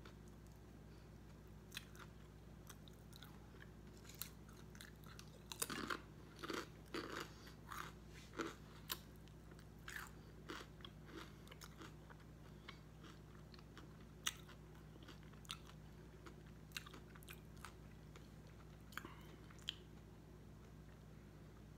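Close-miked mouth sounds of a person chewing a Subway cold cut combo sub. Scattered crunches and smacks come thickest from about six to nine seconds in, then grow sparser.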